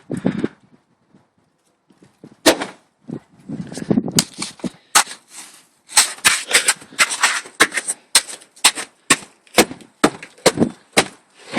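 A quick, irregular run of sharp crunches or knocks, several a second, after a short quiet stretch near the start, with the run thickening from about halfway in.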